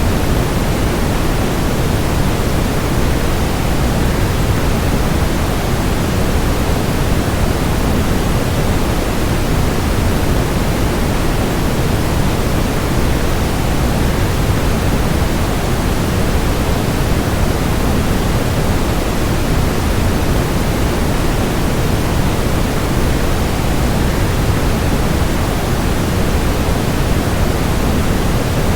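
Steady, unchanging rushing noise, heavier in the low end: the sound of a waterfall blended with white noise.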